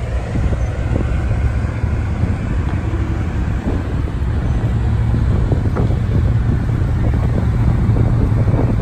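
Bugatti Veyron Super Sport's quad-turbo W16 engine running at low revs as the car creeps past: a steady low rumble with no revving, getting slightly louder toward the end.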